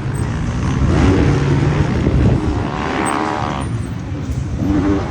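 Motocross bike engines revving hard, the pitch rising and falling as the riders work the throttle through the gears.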